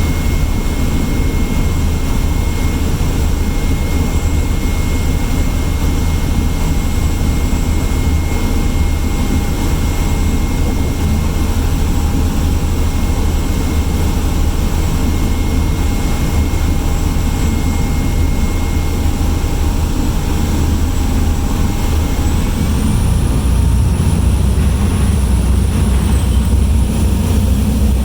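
Ferry's engine running with a steady low rumble and a thin whine. Near the end the whine shifts higher and the rumble grows a little louder.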